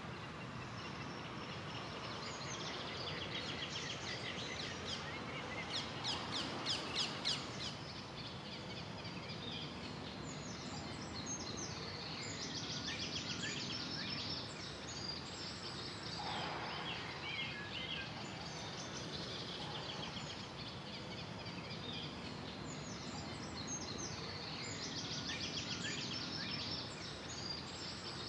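Several wild songbirds singing at once, overlapping songs and calls over a steady background hiss, with one loud fast series of notes about six seconds in.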